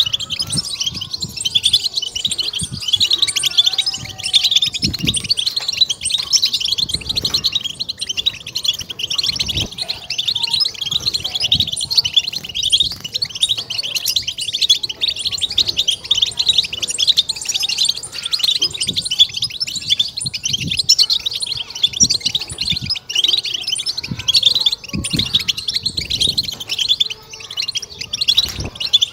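European goldfinch singing its fast, unbroken twittering 'batbata' song, used as a stimulation track to excite other goldfinches. Scattered low thumps run underneath.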